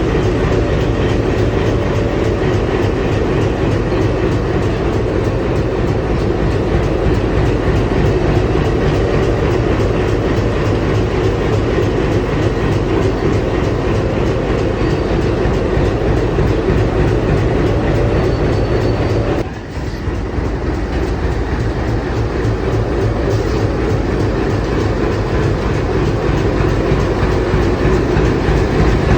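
WDG3A diesel locomotive's ALCO 16-cylinder engine running loudly and steadily, with a brief drop in level about twenty seconds in.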